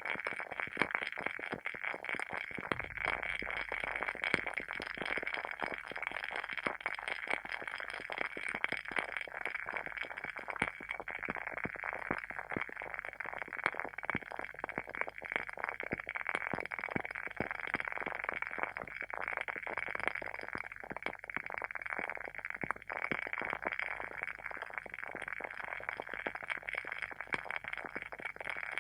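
Wooden wick of a WoodWick candle burning, with dense, rapid, steady crackling like a small bonfire.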